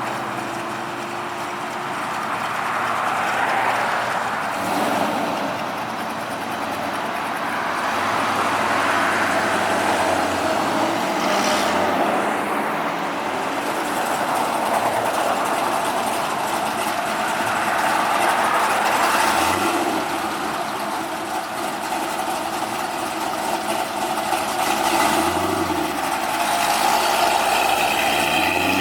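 Car engines running at a car show, their pitch slowly rising and falling as cars move past.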